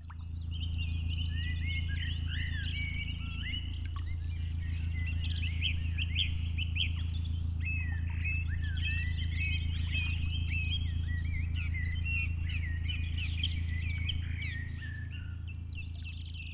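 Several small birds chirping and twittering in quick, overlapping calls, over a steady low drone.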